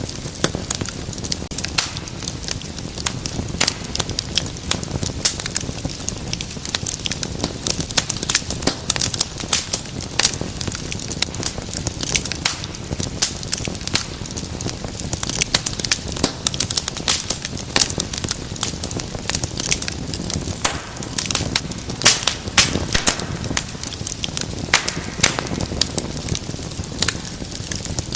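Wood fire crackling steadily in a fireplace: dense, irregular sharp pops and snaps over a low rumble of burning.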